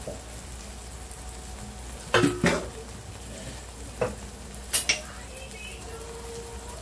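Masala of fried onions, yogurt and cream sizzling in oil in a frying pan. A few short knocks of the stirring spoon against the pan come about two seconds in and again around four to five seconds.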